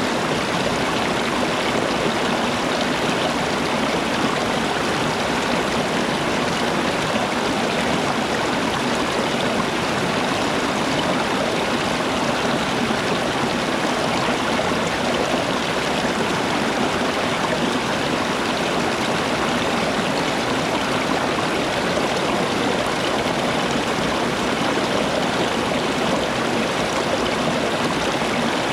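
Steady rushing of flowing water, like a stream running over rocks, unchanging throughout.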